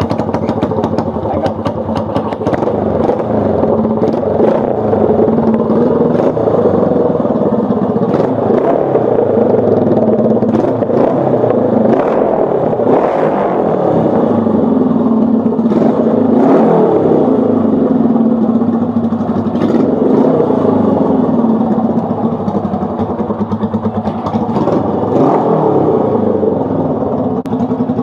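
1965 Honda CB77 Superhawk's 305 cc parallel-twin engine, just started on choke, running loud through new Emgo mufflers and revved up and back down several times.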